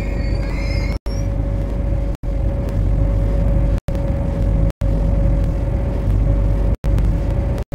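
MTR C-Train electric metro train running on the line: a steady heavy rumble with a steady mid-pitched whine from the running gear, and faint high tones gliding upward at the very start. The sound cuts out for an instant several times.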